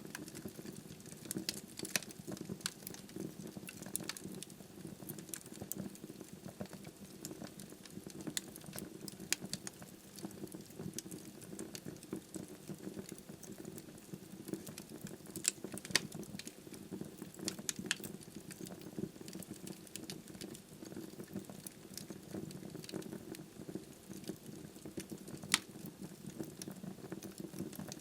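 Wood fire burning in a fireplace, with a steady low rush of flame and frequent small crackles and pops from the burning logs. A few sharper snaps stand out.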